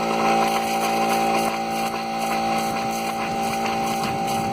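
Air compressor driving a well's air-lift water injector, running with a steady, even hum.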